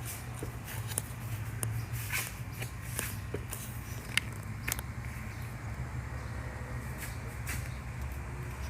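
Scattered light clicks and taps from parts being handled, over a steady low hum.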